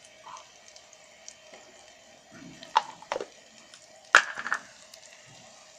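Onions frying quietly in oil in an electric kettle, a faint steady sizzle, with a few sharp clinks of a utensil against metal; the loudest and most ringing comes about four seconds in.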